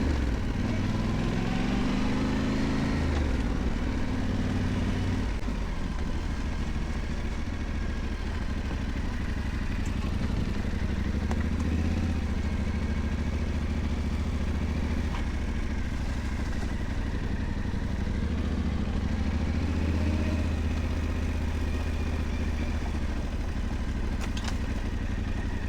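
Yamaha Ténéré 700's parallel-twin engine under way on a dirt track: revs climb over the first few seconds, then settle into steady running, with a couple of gentle rises and falls in revs.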